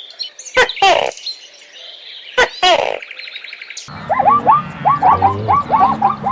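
Bird calls: twice, a sharp click followed by a falling call with rich overtones, with a buzzy trill between them. About four seconds in it cuts abruptly to a dense chorus of many short rising chirps over a low hum.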